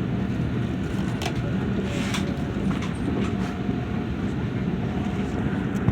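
Train running: a steady rumble with a low hum, and a few brief clicks and squeaks about one to three seconds in.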